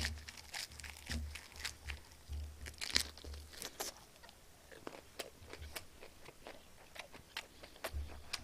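Close-up chewing of a baby napa cabbage leaf wrap around grilled marinated chicken, with irregular crisp crunches and clicks throughout.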